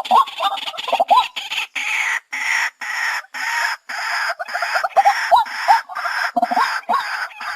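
White-breasted waterhen calling: a fast, loud run of short rising, hooked notes over a harsh clucking chatter, repeatedly broken by abrupt cuts, as from a spliced, looped call recording.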